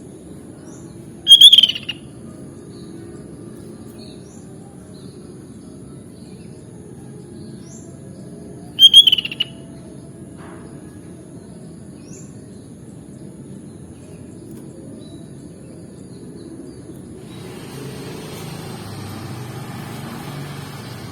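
Sooty-headed bulbul (kutilang) calling: two loud, short calls about seven seconds apart, with faint chirps between them over a low steady hum. A hiss rises near the end.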